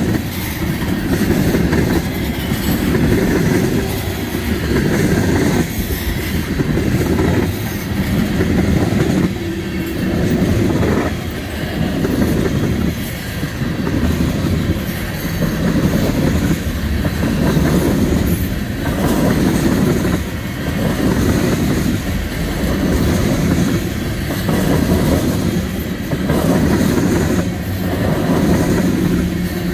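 Loaded ethanol tank cars of a freight train rolling past: a steady rumble and clatter of steel wheels on the rails that swells and dips about every two seconds as each car's wheel sets go by.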